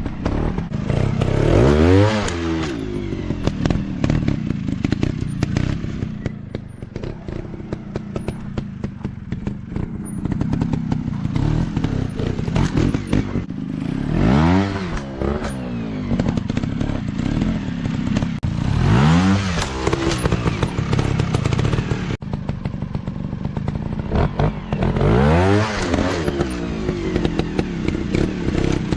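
Dirt bike engines running, revving up sharply and back down four times, over a constant rattle of quick clicks and clatter.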